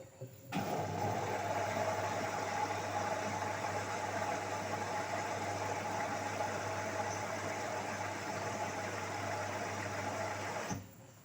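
LG 8 kg direct-drive washing machine early in its cotton cycle, water flowing through it with a steady electrical hum. The hum and rushing hiss switch on about half a second in and cut off abruptly near the end, like a valve or pump being switched.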